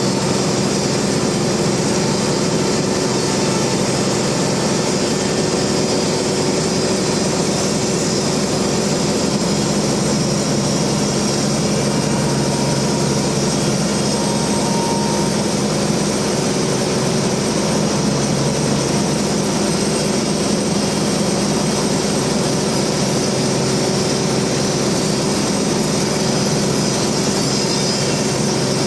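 Large band sawmill running, a steady, unchanging machine drone with a low hum.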